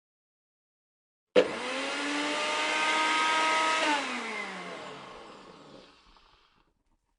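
An electric motor appliance is switched on with a click and runs with a steady whirr. About four seconds in it is switched off, and its pitch falls as it winds down and fades away.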